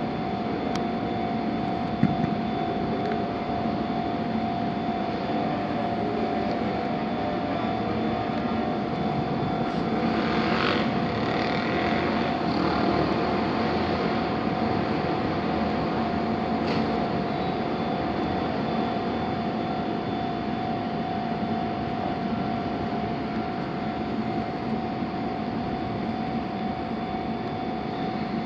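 Railway station ambience: a steady hum with a constant tone from electric trains standing at the platforms. A brief hiss comes about ten seconds in.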